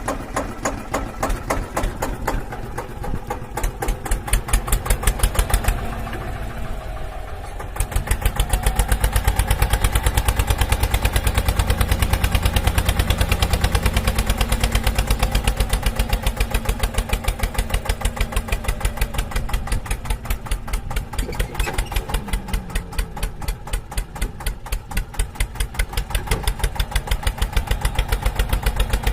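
A tractor-style engine idling with a steady rhythmic chugging of several beats a second. It dips for a couple of seconds about six seconds in, then comes back stronger.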